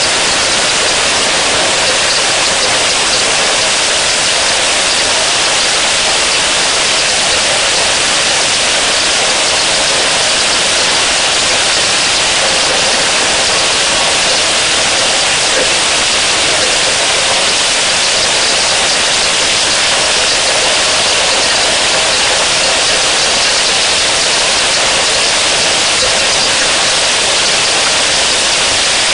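Heavy rain pouring down, a loud, unbroken hiss.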